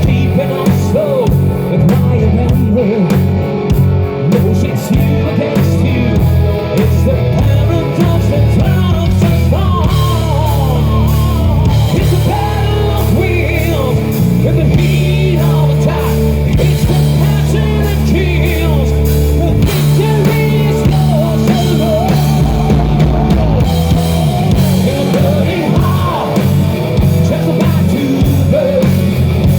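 Hard rock band playing live: singing over distorted electric guitar, bass and a drum kit, loud and continuous.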